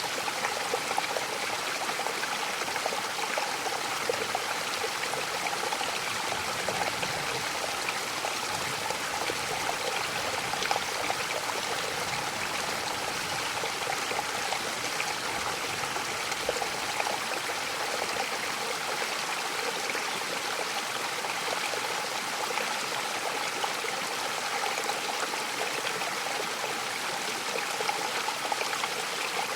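Mountain waterfall: water falling and splashing in a steady, even rush with no pauses or changes.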